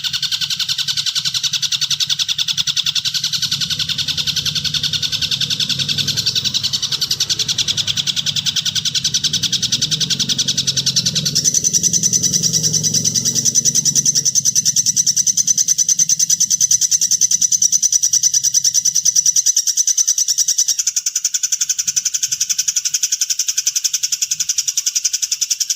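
Harsh, rapid bird chattering, a continuous fast buzzy trill of the 'kasar' type used as masteran to teach competition songbirds. About eleven seconds in it shifts to a higher, brighter trill, and a lower sound under it stops about two-thirds of the way through.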